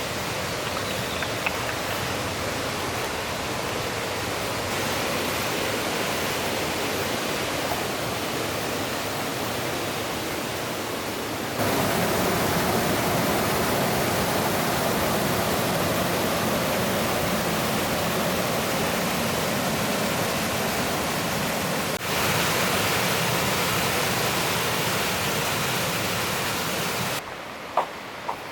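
Steady rush of water from a mountain stream and waterfall, with sudden jumps in loudness about a third and two-thirds of the way in, and a sudden drop near the end followed by a few small clicks.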